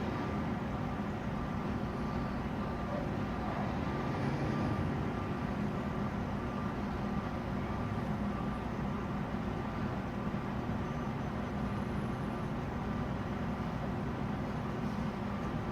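A truck engine running steadily, with a low hum and no change in pitch.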